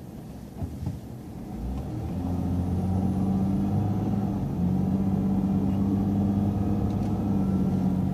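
Transit bus engine pulling away and gathering speed. A low, steady drone builds about two seconds in, and its pitch climbs slowly after that.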